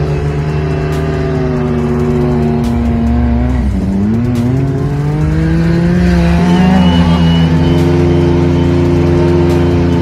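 Off-road vehicle engine revving, its pitch dropping about four seconds in and climbing again a couple of seconds later, over a background hip hop beat.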